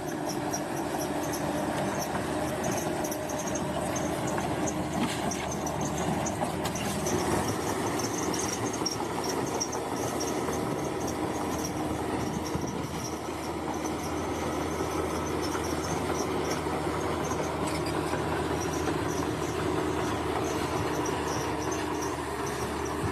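Bulldozer's diesel engine running steadily, with a high, rapidly pulsing sound on top.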